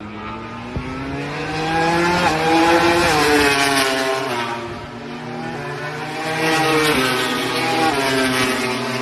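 MotoGP racing motorcycles going past at speed at high revs. Two pass about four seconds apart, each engine note rising as it approaches and dropping as it goes by.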